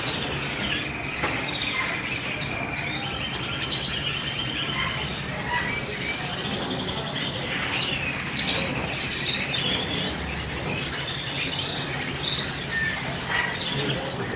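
Many caged birds, canaries among them, chirping and trilling over one another in a dense, continuous chorus, with a faint steady low hum underneath.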